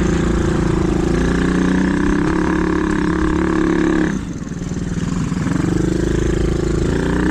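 Small dirt bike engine running hard under throttle, with the throttle shut about four seconds in and the revs rising again a second or so later.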